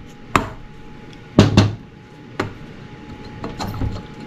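Mallet blows on a Honda CR250 two-stroke's top-end part to knock it loose: several sharp strikes, two in quick succession about a second and a half in, then a few fainter taps near the end.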